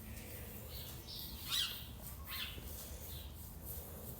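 Birds chirping: a few short, high calls falling in pitch, the loudest about a second and a half in, over a faint low rumble.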